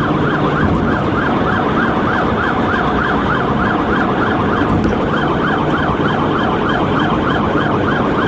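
Police cruiser siren on a fast yelp, about four sweeps a second, with a brief break just before halfway through, over steady road and engine noise during a highway pursuit at about 70 mph.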